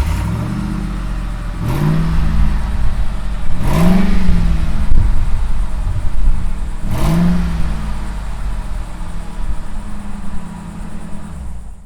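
Ford F-150 SVT Lightning's supercharged 5.4-litre V8 running through its exhaust and revved three times, each rev rising and falling back to idle, at about two, four and seven seconds in.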